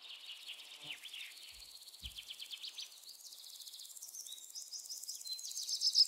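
Birds chirping and trilling, high-pitched, with quick falling notes, growing louder near the end; a few faint low knocks come in the first two seconds.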